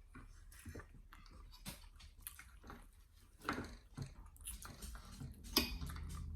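Close-up chewing of steak, soft wet mouth sounds and small clicks, with a couple of louder smacks about three and a half and five and a half seconds in.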